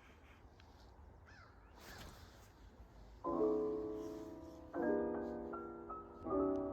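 Faint ambient noise, then soft piano chords of background music come in about halfway through, one chord roughly every second and a half.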